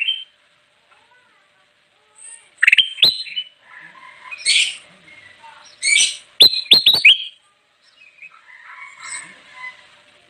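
Kutilang emas, a bulbul, singing: a burst of loud chirps and quick whistled up-sweeping notes for several seconds, then a softer chattering warble toward the end.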